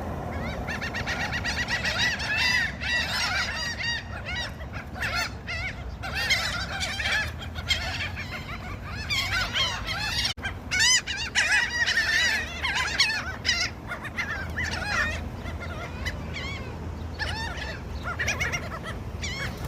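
A flock of seagulls calling over one another in rapid, repeated squawks and cries while competing for food.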